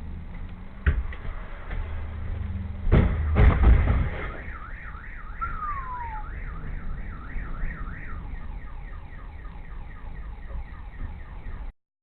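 A sharp bang, then heavy crash impacts, followed by a car alarm wailing up and down about twice a second that switches to a faster warble partway through.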